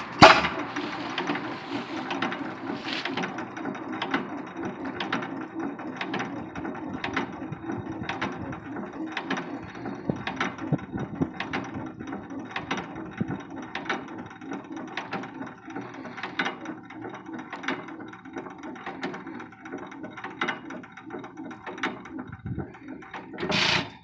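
A 9 hp Economy hit-and-miss stationary gas engine running, a steady low chug with sharp clicks and pops about once a second at uneven spacing.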